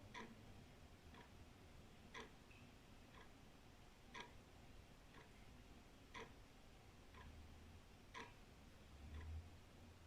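Old wall clock ticking quietly and evenly at about one beat a second, alternating a louder tick with a softer tock. A faint low rumble swells near the end.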